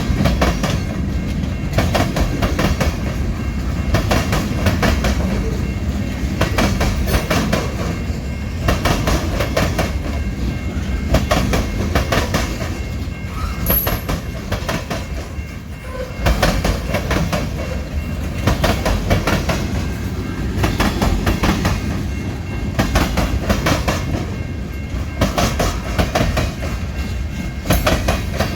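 Train cars rolling past, their wheels clicking over rail joints in irregular clusters over a steady low rumble.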